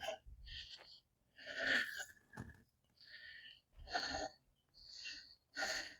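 A person breathing hard and out of breath, a run of short, hissy breaths about one a second, after hurriedly hauling heavy plant containers.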